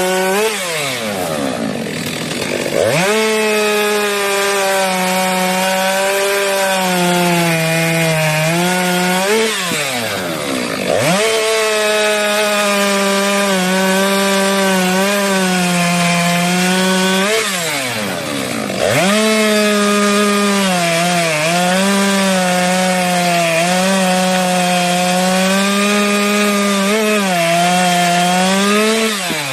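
STIHL MS 462 two-stroke chainsaw running at high revs while cutting wood, its pitch wavering and sagging under the load of the cut. Three times the revs drop away and then climb back up, about a second in, around ten seconds and around eighteen seconds in.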